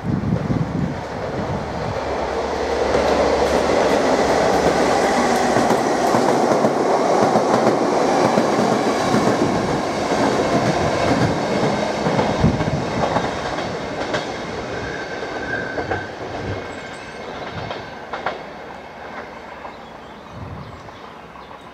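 Class 67 diesel locomotive with its EMD two-stroke V12 engine, hauling a test train through a station at line speed. The engine and wheels on the rails grow loud as it passes, with the clickety-clack of wheels over rail joints, then fade away as the train recedes. A brief high squeal comes about 15 s in.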